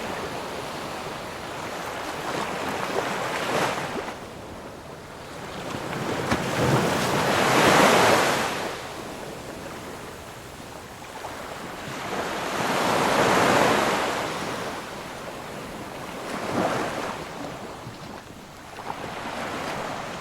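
Ocean waves surging and breaking in slow swells, each rising to a crash and washing back out. The two biggest waves come near the middle, with smaller ones before and after.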